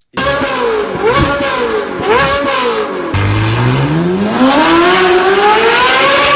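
V8 car exhaust revved twice in quick blips, then, after an abrupt cut about three seconds in, a car accelerating hard with its engine note climbing steadily.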